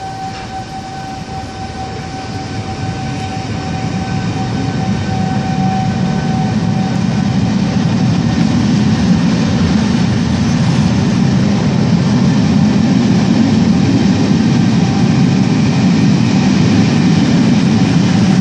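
Steam train pulling away, its running noise growing steadily louder as it gathers way. A steady high tone is held over the first several seconds and fades out.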